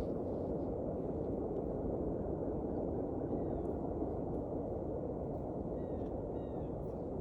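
Steady rushing of creek water, with a few faint, short bird chirps about three seconds in and again near the end.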